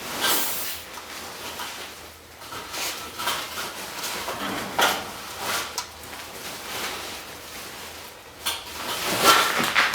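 Wood fire burning in a Supra Univers II fireplace insert, with irregular crackles and short rushes of noise every second or two.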